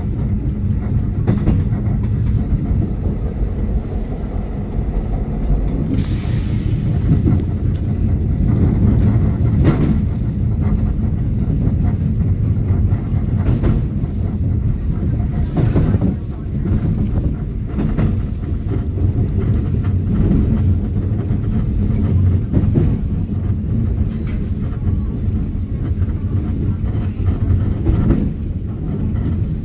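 Passenger train running along the track, heard from inside the carriage: a steady low rumble with sharp wheel clacks over rail joints every few seconds.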